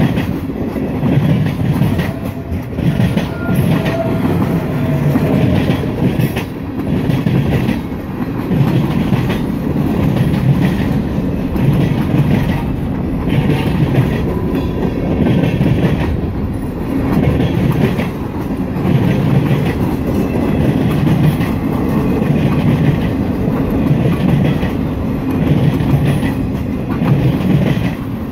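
Freight cars of a long CSX train rolling past close by: a steady rumble of steel wheels on rail, swelling in a regular clickety-clack as each set of wheels goes by.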